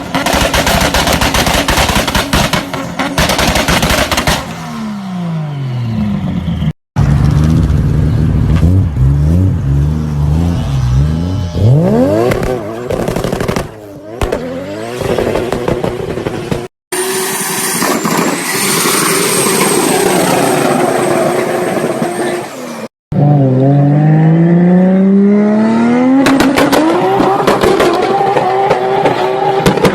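Turbocharged car engines in several short clips. The first few seconds are rapid-fire exhaust bangs and pops on a launch-control (two-step) limiter. Then revs fall and rise, a high steady whistle sounds for a few seconds past the middle, and near the end the revs climb again with more popping.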